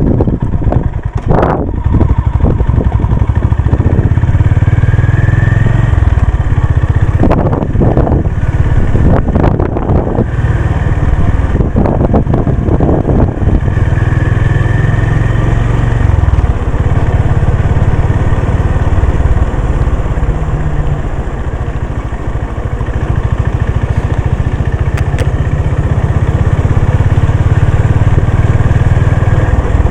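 Honda CB350 RS's air-cooled single-cylinder engine pulling away and accelerating through the gears, with several gear changes in the first half, then running at a steady cruise.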